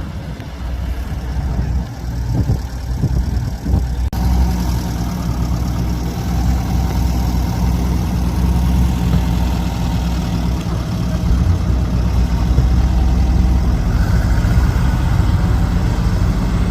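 Car engine idling close by, a steady low note that sets in about four seconds in and runs on.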